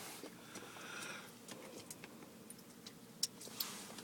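Automatic car wash heard faintly from inside the car's cabin: a low hiss that swells briefly about a second in, with scattered small ticks and clicks, one sharper near the end.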